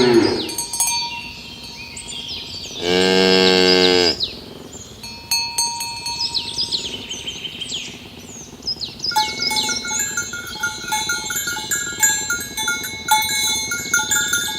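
A cow mooing once, a long steady low call about three seconds in, with the end of another moo at the start. Small birds chirp throughout, and from about nine seconds a run of repeated bell-like tones rings on.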